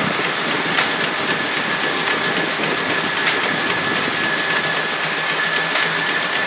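Sawmill machinery running steadily: an engine with a constant high whine and fast, even light ticking, plus a sharper click about every two and a half seconds.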